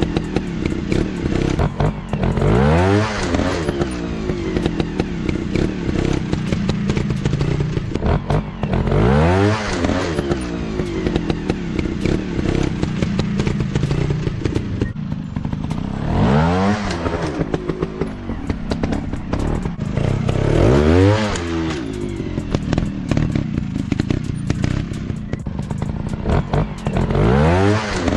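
Trail motorcycle engines running off-road. The revs rise sharply and drop back again about five times, with clattering and thuds between.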